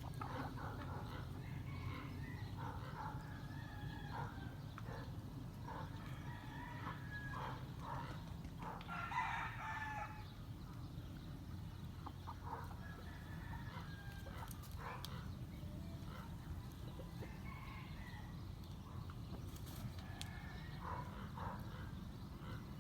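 Chickens calling and clucking, with a rooster crowing once, loudest, about nine seconds in.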